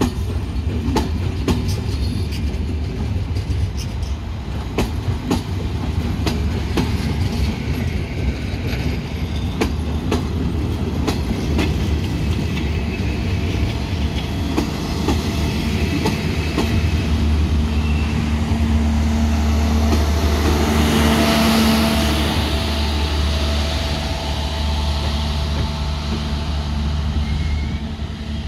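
Train running through the station, its wheels clacking over the rail joints in the first half over a steady low hum. The hum swells with a steady droning tone later on, and a burst of hiss comes about two-thirds of the way through.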